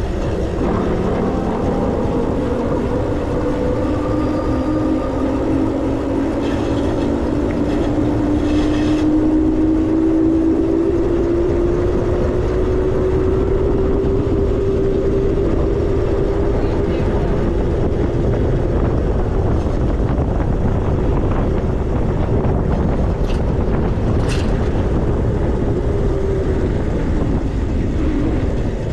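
Wind rushing over the microphone of a moving e-bike, under a motor whine that slowly rises in pitch for about the first eighteen seconds, then fades. A few short clicks near the end.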